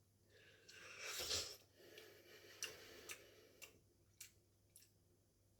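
Faint handling noise: a soft rustle about a second in, followed by five light clicks spaced about half a second apart.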